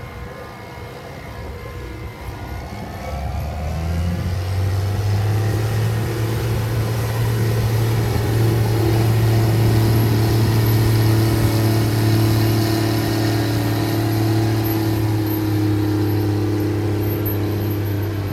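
2003 Challenger MT765 tractor's diesel engine running. It grows louder about three to four seconds in, then holds a steady, deep note.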